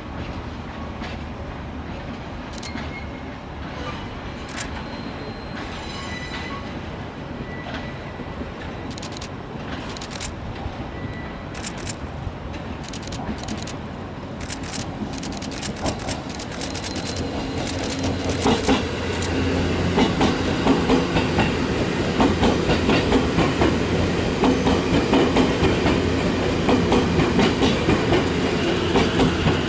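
E257 series electric train running on the track. Its rumble and scattered clicks swell about two-thirds of the way through into a louder, regular clickety-clack of wheels over rail joints as it draws near.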